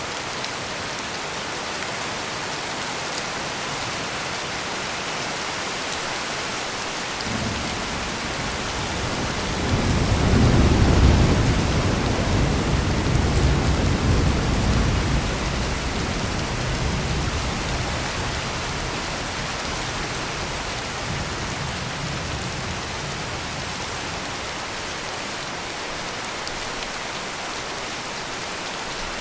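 Steady heavy rain pouring, with a roll of thunder that starts about seven seconds in, swells to its loudest a few seconds later and slowly rumbles away.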